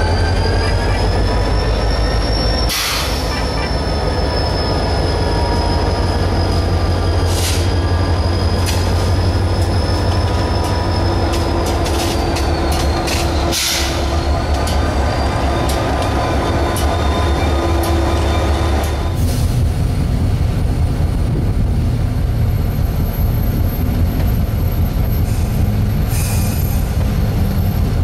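QNS&L train running, its steel wheels squealing on the rails in a high, steady tone that wavers slowly in pitch over a deep rumble. A few sharp clacks break in, about three seconds in, near the middle and around halfway, and the rumble shifts about two thirds of the way through.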